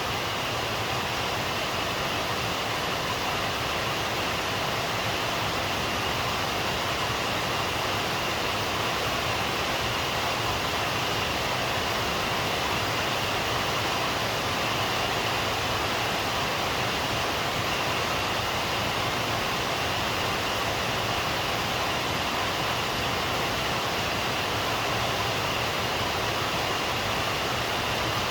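Steady rain, an even hiss that doesn't change, with no single drops or thunder standing out.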